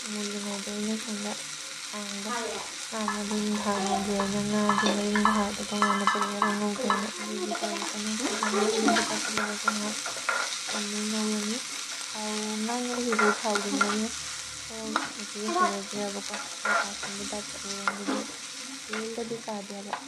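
Sliced onions frying and sizzling in oil in a wok while a flat metal spatula stirs and scrapes them against the pan, in irregular strokes. A wavering pitched tone comes and goes underneath.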